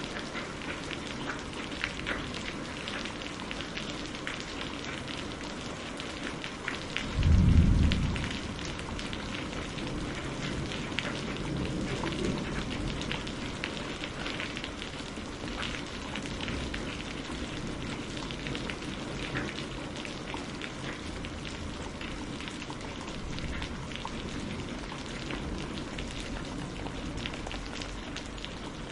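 Steady rain falling, mixed with the crackle of a wood fire. About seven seconds in comes a short, loud low rumble.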